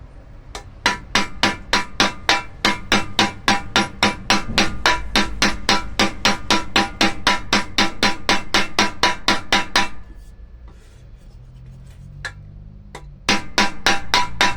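Rapid light hammer taps peening down the rivets of a pressure cooker's aluminium handle, about four or five a second, each with a short metallic ring. The tapping stops about ten seconds in and starts again near the end.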